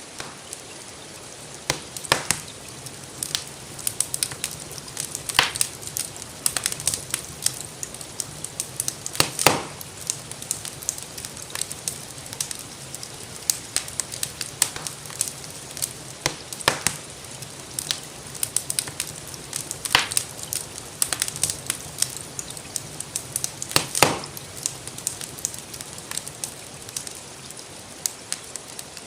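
Wood fire crackling with irregular sharp pops, the loudest about nine and a half and twenty-four seconds in, over a steady hiss of gentle rain.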